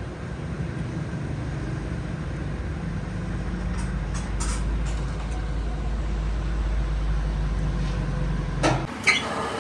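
A machine running with a steady low hum, with a few light clicks about four seconds in. Near the end comes a louder knock, and the hum cuts off abruptly as a different, brighter noise takes over.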